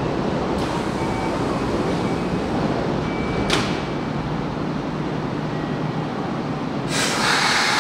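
Electric commuter train at a station platform: a steady low rumble, a single sharp click about halfway through, and a loud hiss that sets in near the end.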